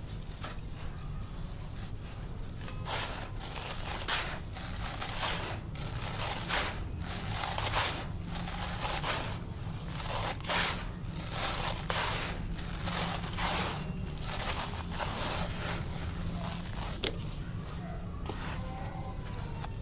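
Dry, dusty black concrete being crumbled: a run of short, crisp crunches, about one to two a second, over a low steady hum.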